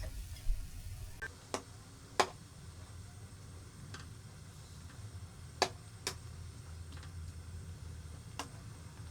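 About seven sharp, irregularly spaced clicks or knocks over a low steady rumble, the loudest about two seconds and five and a half seconds in.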